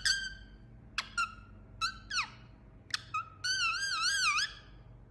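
Indian ringneck parakeet calling: a run of short, sharp squawks, some paired, about a second apart, then a longer wavering whistle-like call near the end.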